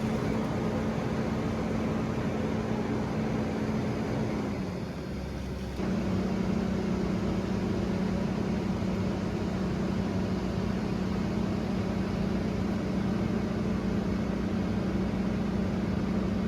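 Diesel engine of heavy logging machinery running steadily. It drops away briefly about five seconds in, then carries on at a slightly lower pitch.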